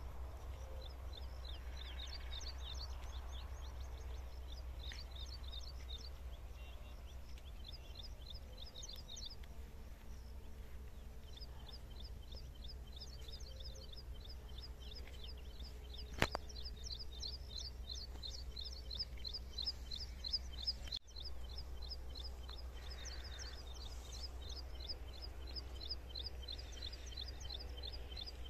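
A bird calling a long run of quick, high chirps, about four or five a second, with a short break partway through. Under it runs a steady low rumble, and there is a single sharp click about halfway through.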